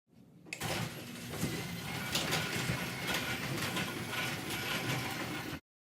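Exhaust of a 2018 Hyundai Elantra Sport's 1.6-litre turbocharged four-cylinder with the resonator removed, running with a dense, rapid pulsing note. It starts about half a second in and cuts off suddenly near the end.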